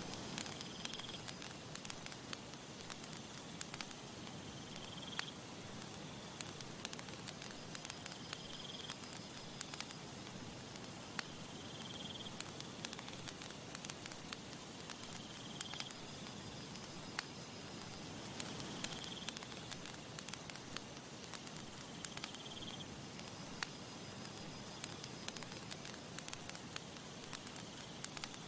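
Campfire crackling and popping steadily, with many sharp irregular snaps, over a soft even hiss. A short high chirp repeats about every three to four seconds.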